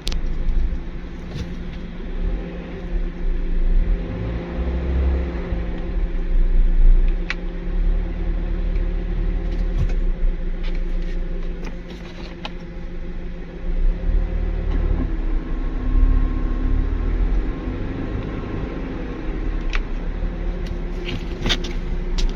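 Renault Kangoo 2 running, with a steady droning hum from its belt over a low engine rumble. The hum's pitch changes about two-thirds of the way through.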